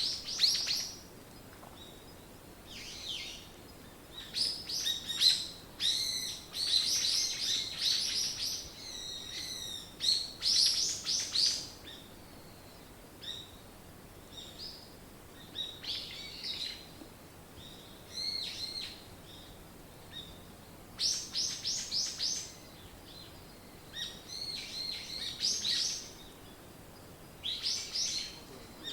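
Songbirds singing: short phrases of quick, high chirping notes every few seconds, with brief quiet gaps between them.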